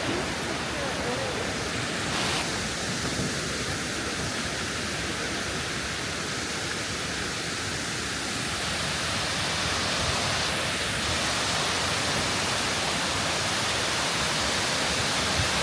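Kuang Si waterfall's water pouring down, heard as a steady, even rushing that holds at one level throughout.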